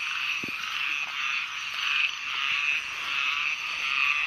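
A chorus of many small paddy frogs (khiat) calling from a pond: a steady, dense mass of overlapping rapid pulsed calls, fairly loud.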